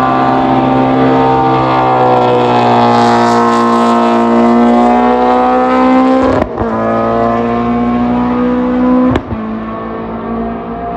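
A racing car's engine running hard at high revs, its pitch sagging and climbing slowly. It is broken twice by a sudden crack, about six and a half and nine seconds in, and is a little quieter after the second one.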